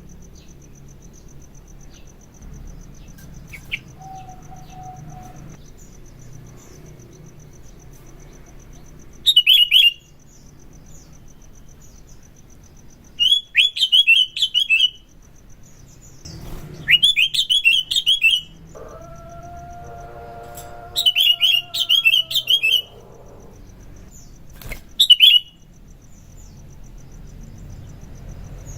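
Sooty-headed bulbul (kutilang) singing in loud bursts of rapid chattering notes, five phrases a few seconds apart. Under them runs a steady high insect trill.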